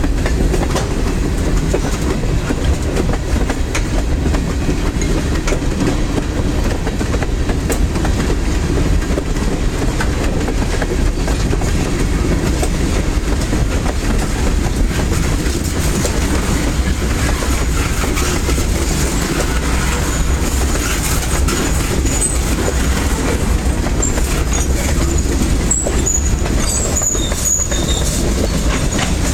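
Lancaster & Chester Railway freight train's cars rolling steadily past with a continuous rumble and clatter of wheels on the rails. From about two-thirds of the way in, short high-pitched wheel squeals come and go.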